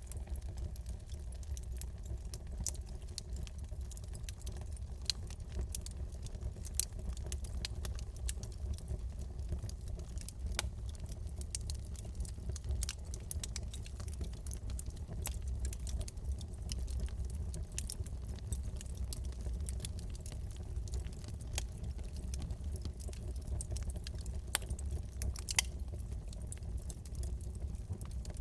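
Wood fire burning in a fireplace: a low steady rumble of flames with constant irregular crackling, and a few louder pops near the end.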